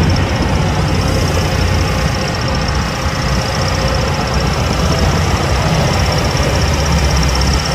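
Diesel engine of heavy earthmoving machinery running steadily, with a fast-pulsing high-pitched buzz above the engine hum.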